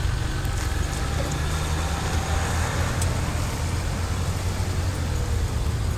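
Steady low rumble of an approaching diesel freight locomotive.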